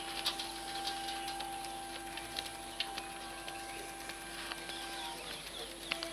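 Steady electrical hum of an EMU (electric multiple unit) local train, held on two or three level tones, with scattered light clicks and knocks.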